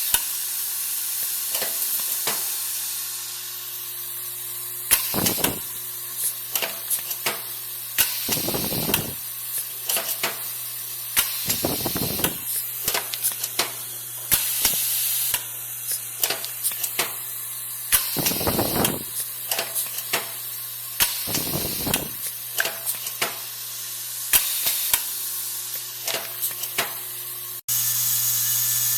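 A steady low mechanical hum under a hiss, broken by many sharp clicks and by five bursts of rushing noise, each about a second long. The sound changes abruptly near the end.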